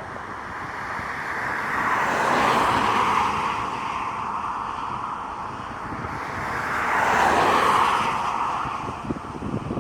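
Two road vehicles passing by one after the other, each tyre-and-engine noise swelling and fading over a few seconds, with wind buffeting the microphone.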